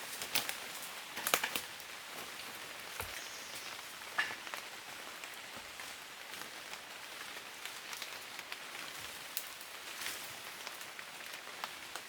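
Steady outdoor hiss with scattered light ticks and crackles, a small cluster of louder clicks about a second in and another near four seconds.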